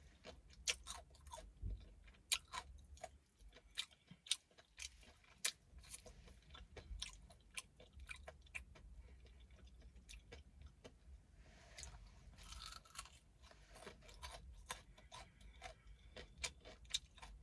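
A person chewing fried chicken close to the microphone, with irregular wet crunches of the breading.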